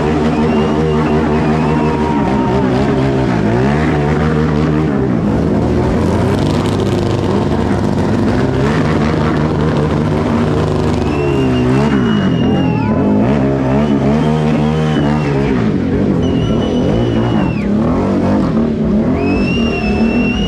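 Motorcycle engines running at low speed, their pitch dipping and rising again and again as the riders blip and feather the throttle in a slow race. Several short, high-pitched whoops cut through about a second in and again in the second half.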